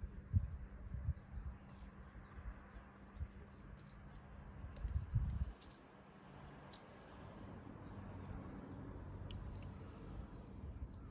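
Wood fire burning in a rusted can, crackling with scattered sharp pops. Low thumps come near the start and about five seconds in, and a soft hiss builds from about six seconds on.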